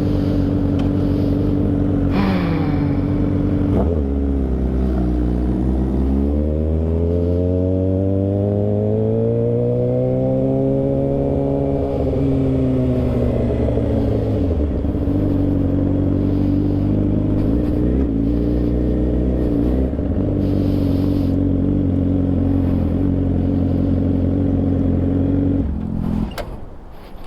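Motorcycle engine running under way. Its pitch dips about 2 seconds in, climbs steadily for several seconds as the bike accelerates, eases back, holds steady at cruising speed, and drops off sharply near the end as the bike slows.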